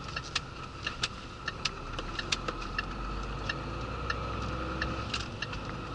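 Cab of a Renault rigid truck: the diesel engine runs low and steady, swelling a little about two seconds in, under a run of sharp ticking clicks, about two to three a second.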